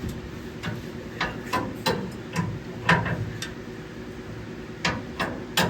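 Sharp, uneven clicks and knocks, a few seconds apart at most, from hand tools working on the truck's rear ladder-bar suspension while the pinion angle is being adjusted.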